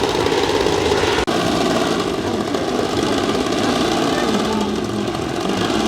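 Large RC model airplane engine running steadily, cut off abruptly just over a second in and picked up again.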